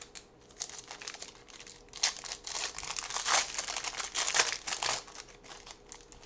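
Plastic trading-card pack wrapper crinkling as it is handled and torn open, loudest from about two to five seconds in.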